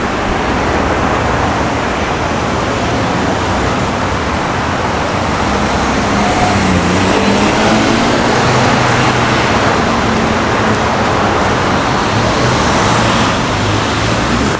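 Street traffic noise: a steady hiss of passing cars, swelling a little around the middle as vehicles go by.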